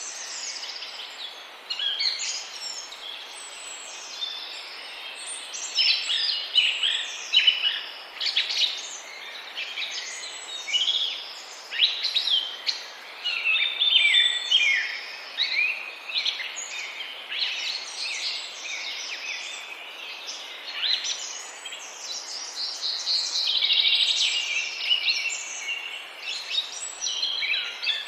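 Birds chirping: many short, high-pitched calls overlapping continuously, over a faint steady background hiss.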